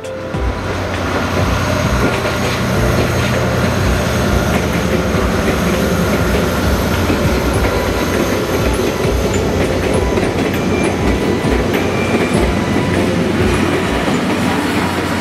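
A diesel train passing close by, with a steady engine and running noise and repeated clacks as its wheels cross rail joints. The sound builds over the first second and then holds loud.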